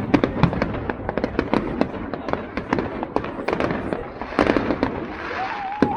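Fireworks going off: dense sharp bangs several times a second, with a hissing crackle swelling about four seconds in and a wavering whistle near the end.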